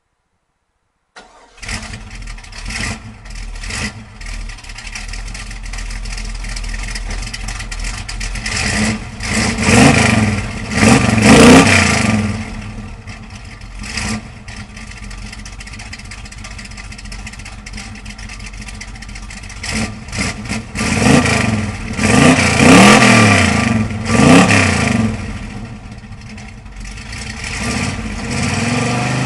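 1981 Chevrolet Camaro Z28's 383 cubic-inch V8 starting about a second in and running at a fast idle, with exhaust vapour showing it is a cold start. It is revved in a series of blips twice, about ten seconds in and again about twenty-two seconds in, then drops back to idle.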